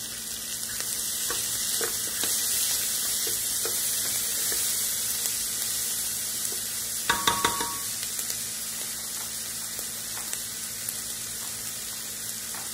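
Chopped onion and peppers sizzling in hot pork lard in an aluminium pressure cooker while a spoon stirs them, with small scrapes and clicks of the spoon on the pot. About seven seconds in comes a short clatter of loud knocks with a brief ring.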